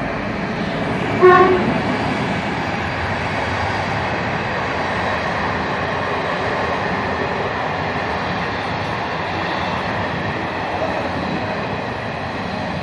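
Passenger train hauled by an ONCF E1400-class electric locomotive pulling out of a station. A short horn blast sounds about a second in, then the coaches roll past with a steady noise of wheels on the rails.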